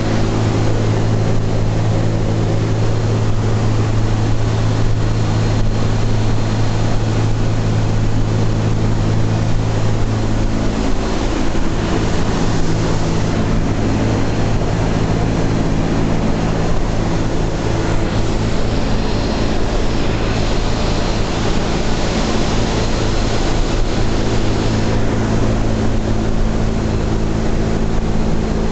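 Boeing B-17 Flying Fortress's radial piston engines droning steadily with a rushing noise over a low hum. The lowest tone of the drone shifts slightly about ten seconds in.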